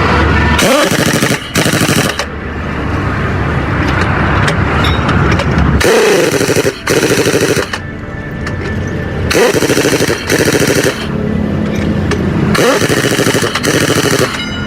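Air impact wrench running in short rattling bursts, about four pairs of them, some starting with a rising whine as the tool spins up, over a steady engine hum.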